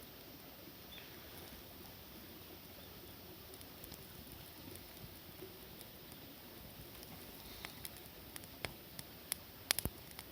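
Faint wood campfire crackling, then a string of sharp pops and snaps in the last few seconds.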